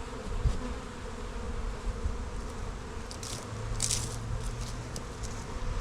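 Honeybees buzzing steadily around the hive, with wind rumbling on the microphone. There are a couple of brief scraping hisses a little past halfway.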